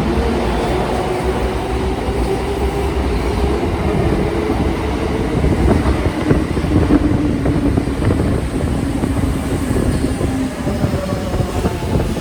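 Electric train moving through the station: a steady rumble and wheel noise on the rails, with a faint motor whine that falls gently in pitch.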